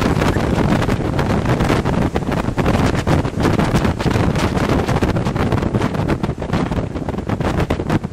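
Strong storm wind buffeting the microphone, a loud gusty rumble with constant rapid thumps, over the surf.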